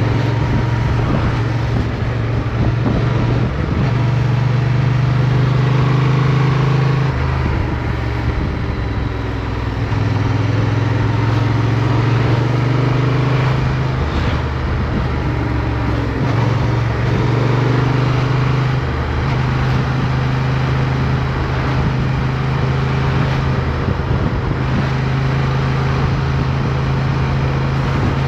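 Motorcycle engine running under way, its note stepping up and down several times with throttle and gear changes through the turns, recorded onboard.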